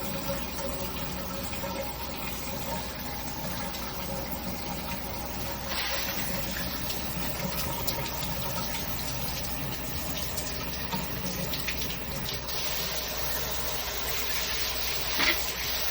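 Water running from a newly installed shower head, a steady spraying hiss that grows brighter about six seconds in and again near the end. A single sharp knock sounds just before the end.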